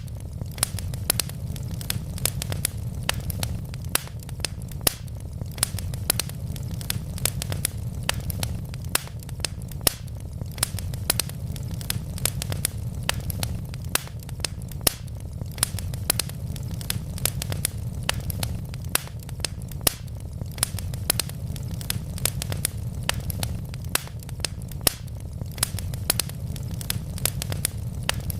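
Wood fire burning, with a steady low rumble and many sharp, irregular crackles and pops from the logs.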